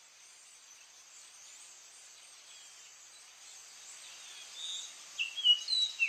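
A dense chorus of birds chirping, fading in at the start, with several louder short whistled calls, some falling in pitch, near the end.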